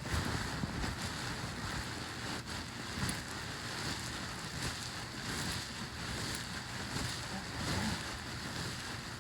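Hands massaging oiled hair, a continuous rubbing and rustling.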